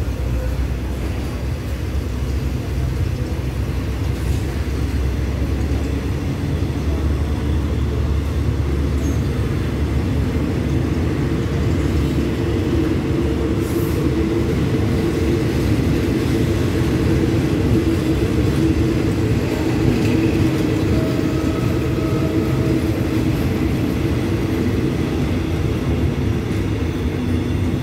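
Passenger train pulling out of the station, its coaches rolling past on the track with a steady low rumble.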